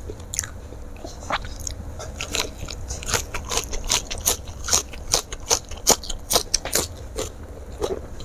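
Close-miked crunchy chewing of a mouthful of raw lettuce leaf wrapped around food: rapid sharp crunches, sparse at first and densest in the middle.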